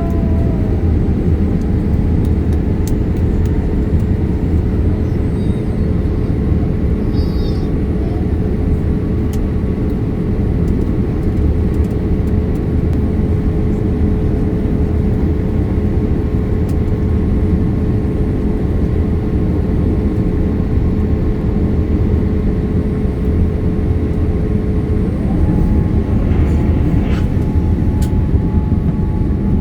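Boeing 787 Dreamliner cabin noise: a steady deep rush of engine and airflow, with a steady whine that slides up to a higher pitch near the end.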